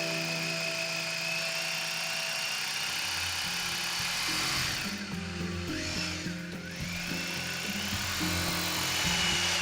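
Electric drill boring holes into a wall, its motor whining and rising in pitch; about five seconds in the whine drops sharply, then climbs back up as the drill speeds up again. Background music plays alongside.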